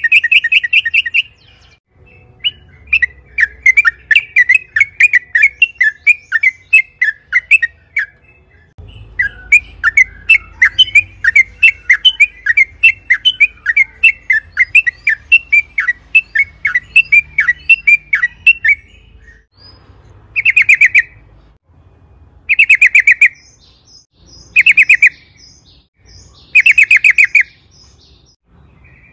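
Yellow-vented bulbul (trucukan) singing. It gives two long rolling runs of quick, bubbly notes, then short phrases repeated about every two seconds near the end.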